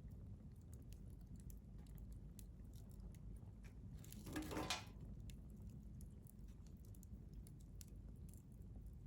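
Wood campfire burning softly: scattered small crackles and pops over a low steady rumble, with a brief hiss from the fire a little past the middle.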